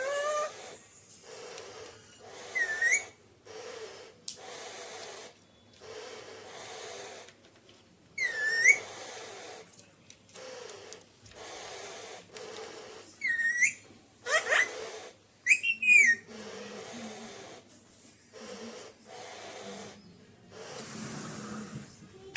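Alexandrine parakeet making a run of breathy hissing sounds, each about a second long, broken by several short whistles that rise in pitch, with a warbling whistle near the end.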